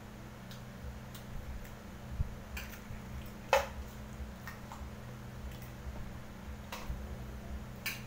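Eating sounds: irregular small wet clicks of chewing and lip smacks, a few seconds apart, with one louder click about three and a half seconds in, over a steady low hum.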